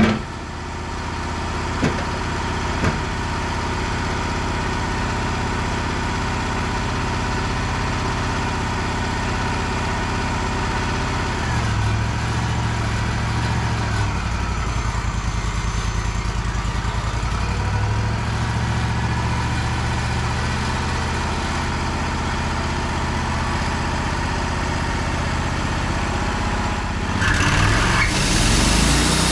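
Wood-Mizer sawmill engine idling steadily, with a few short knocks in the first three seconds. Its tone shifts twice in the middle, and near the end it revs up louder and higher.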